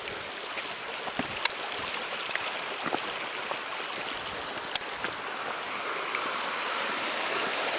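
Creek water running steadily, with a few faint clicks scattered through it.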